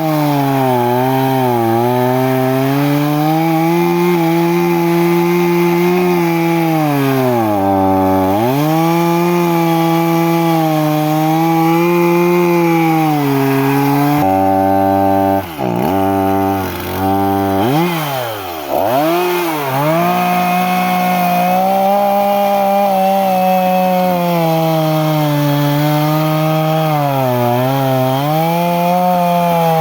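Two-stroke chainsaw running hard at high revs, its engine note sagging and recovering as it loads up in the wood. It drops low about eight seconds in and again several times around halfway, where the throttle is let off and blipped, then it revs back up.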